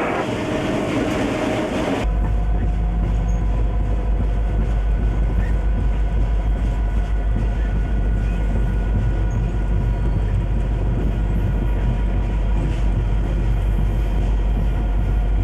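Diesel freight locomotive running, a heavy steady low rumble with steady tones above it. About two seconds in, the sound changes abruptly from a broad noisy rush to this rumble.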